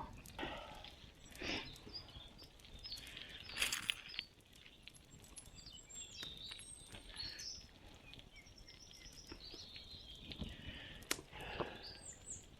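Quiet forest ambience: small birds chirping high and thin, with scattered close rustles and sharp crackles, the loudest about four seconds in and again near eleven seconds.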